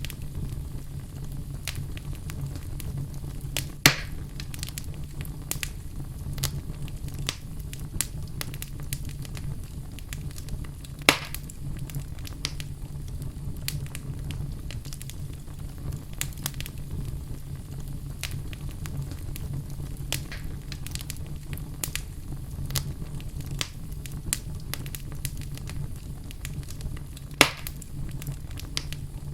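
Wood fire burning in a fireplace, crackling with frequent small snaps over a low steady rumble of the flames. Three louder pops stand out: about four seconds in, about eleven seconds in, and near the end.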